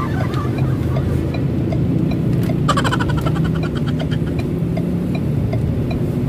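Steady hum of a car driving, heard from inside the cabin, mixed with background music. A short pulsing high tone sounds about three seconds in.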